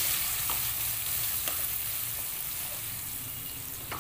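Green peas and cashews sizzling in hot oil in a kadhai as they are stirred with a wooden spatula, with a few light taps and scrapes of the spatula against the pan. The sizzle fades slightly near the end.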